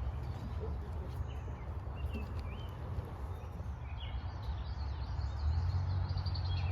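Wild songbirds calling and singing: short chirping notes scattered throughout, and a quick run of higher notes from about four and a half seconds in. Under them a low rumble grows louder about five and a half seconds in.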